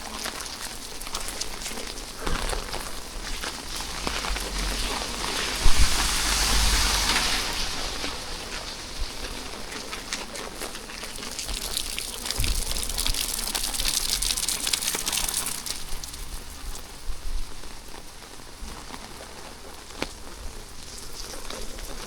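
Rain falling steadily with a dense patter of drops, swelling twice into heavier spells, with a low rumble under the first one.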